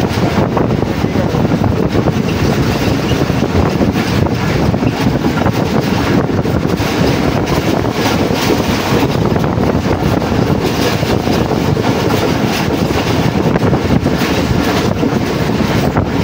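Express passenger train running at speed, heard from on board: a steady rumble of the coaches' wheels on the rails.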